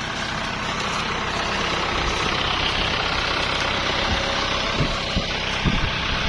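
Kubota L5018 tractor's diesel engine running steadily, growing a little louder over the first couple of seconds, with a few low thuds near the end.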